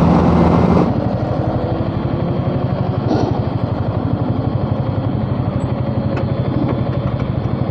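Motorcycle engine idling with an even, quick pulsing beat, after a louder first second.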